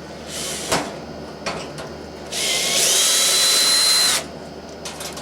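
Cordless drill-driver whirring for about two seconds, its pitch rising then holding steady, as it runs screws out of the oil boiler's flue pipe, with a brief blip of the drill about half a second in.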